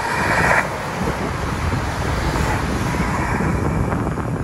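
A train passing close by: a steady, dense rumble of wheels on the track, with a brief brighter hiss in the first half second.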